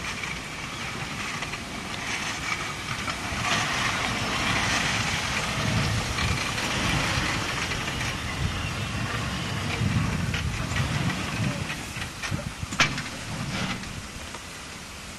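Steam train hissing steam over the rumble of the running train, with a sharp click late on.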